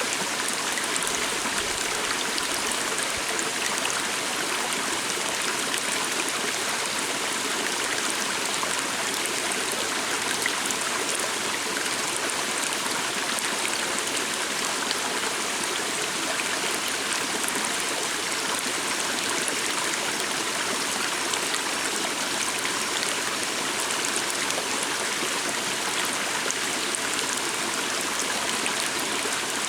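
Small stream flowing steadily over rocks: a continuous, even rushing of water.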